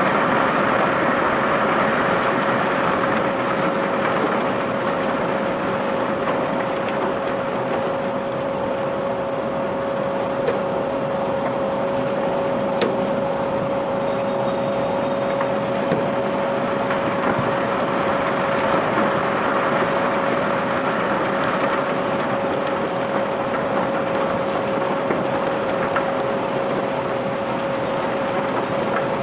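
Ship's unloading conveyor machinery running: a steady mechanical rush with a constant hum, and a few faint clicks.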